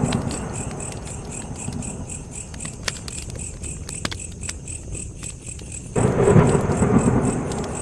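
Campfire crackling with scattered sharp pops, under crickets chirping steadily at about four chirps a second. About six seconds in, a loud low rumble comes in suddenly and drowns the crackle.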